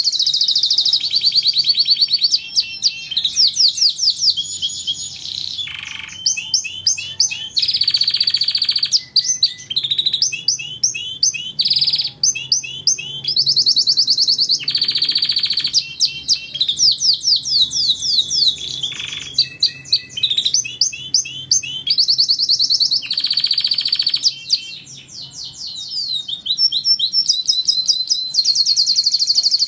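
Domestic canary singing a long continuous song of rapid trills, rolls and quick rising and falling whistled phrases, with brief pauses.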